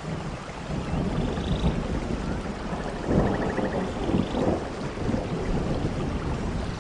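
Rolling thunder over steady rain. The low rumble sets in suddenly and swells to its loudest about three seconds in.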